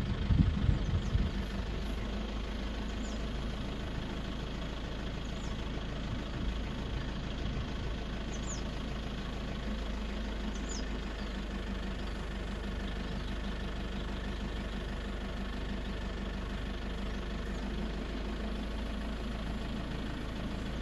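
Vehicle engine idling steadily, with louder low rumbles in the first second or so. A few faint short high chirps are scattered through it.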